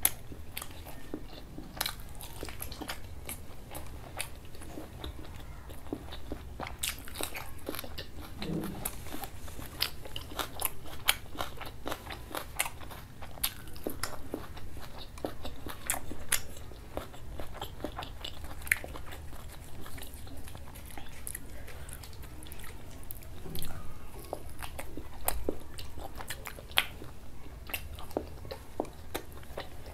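Close-miked chewing and biting of a person eating meat curry with dal puri by hand, with many short, sharp wet mouth clicks all through.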